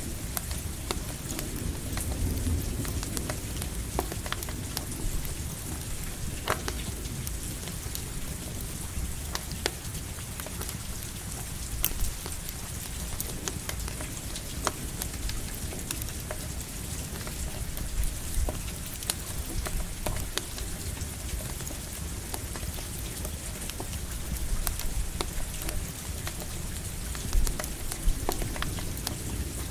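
Steady rain falling with a campfire crackling, scattered sharp pops over the hiss, and low rumbles of distant thunder swelling now and then.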